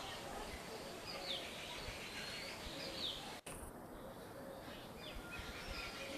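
Parrots calling: short, sharp calls that slide downward in pitch, repeated every second or so over a steady outdoor hiss, with a sudden brief dropout a little past halfway.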